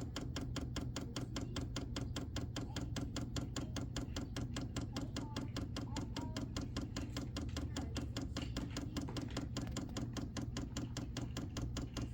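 A VEVOR 5 kW diesel air heater's fuel dosing pump clicking during priming: rapid, evenly spaced ticks over a low steady hum, the pump being run continuously to draw diesel up the fuel line.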